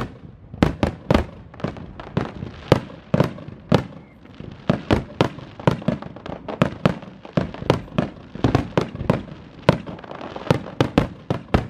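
Fireworks display: a fast, irregular run of aerial shell bursts, often two or three booms a second, each trailing a short echo.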